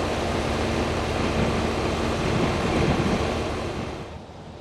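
Pulling vehicle's engine running with a dense, steady roar that swells, then drops away sharply about four seconds in.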